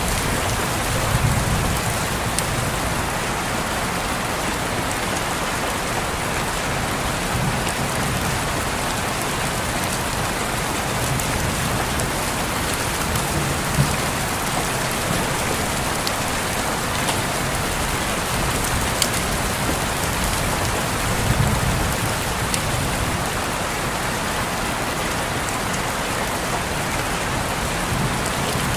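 Steady rain on a window glass, a dense even hiss with scattered sharp drop ticks. Now and then there is a soft low rumble.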